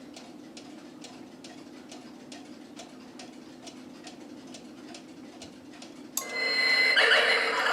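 Quartz cuckoo clock ticking steadily, about two ticks a second, over a low hum. About six seconds in, a much louder sound cuts in suddenly: a held high tone, then a broad noisy wash.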